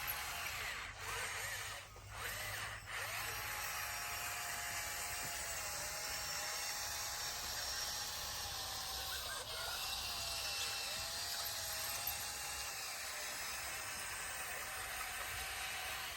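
Bulldozer working, a steady mechanical noise over a low rumble, with a thin wavering whine that dips and recovers several times.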